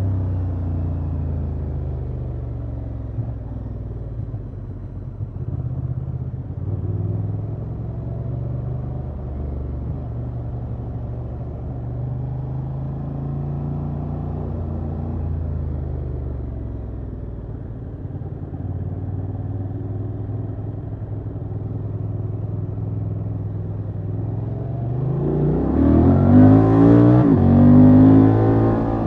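Honda XL750 Transalp's 755 cc parallel-twin engine on its stock exhaust, running at low, gently varying revs while riding. Near the end it revs up and gets louder.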